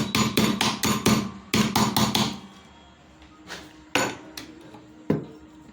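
Hammer blows on metal: a quick run of about a dozen sharp strikes, then a pause and a few single blows spaced about half a second apart.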